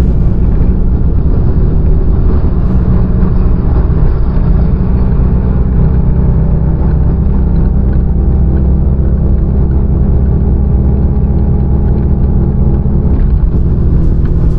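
Fiat Uno's engine running at a steady cruise, a low steady drone heard from inside the cabin.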